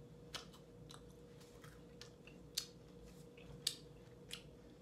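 A person chewing a crunchy KitKat wafer bar with the mouth closed: faint, irregular crunches, the loudest about two and a half and three and a half seconds in, over a faint steady hum.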